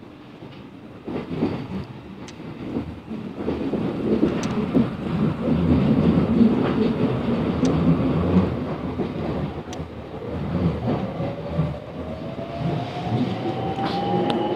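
Class 707 Desiro electric multiple unit pulling away and gathering speed, with wheels rumbling and clattering over rail joints and points, heard from inside the carriage. About two-thirds of the way in, a steadily rising traction motor whine comes in as the train accelerates.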